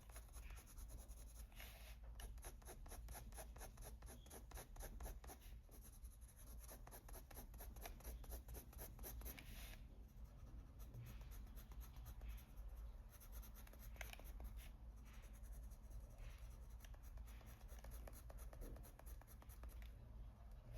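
Coloured pencil scratching faintly on paper in short, quick back-and-forth strokes, several a second, layering colour. After about ten seconds the strokes become slower and more scattered.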